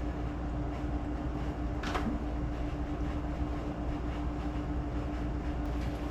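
A steady low mechanical hum with a constant tone, and one faint knock about two seconds in.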